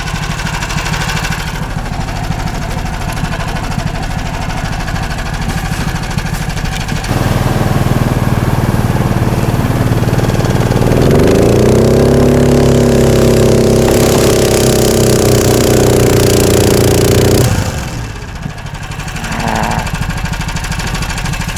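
Motorized snow tug engine running low, then opened up about seven seconds in. Its pitch climbs and is held high for several seconds before the throttle is released near the end. The tug is digging itself into the deep snow instead of moving.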